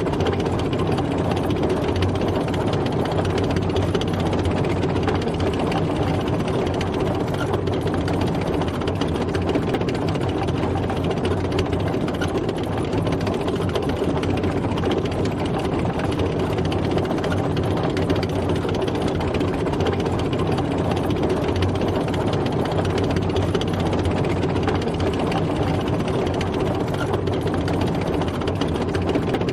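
Tank driving, its engine running steadily with a constant dense rumble and no change in pace.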